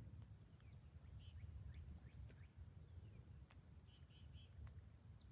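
Near silence in woodland, with faint distant bird calls: a quick group of three short notes twice, and a few scattered chirps, over a low steady rumble.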